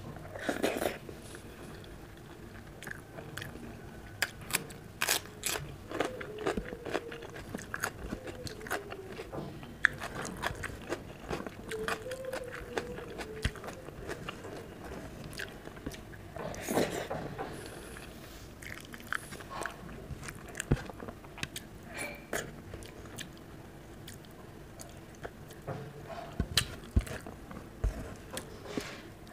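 Close-up chewing of a mouthful of rice and mung dal eaten by hand: a steady stream of quick wet mouth clicks, with louder bursts about a second in and again around 17 seconds.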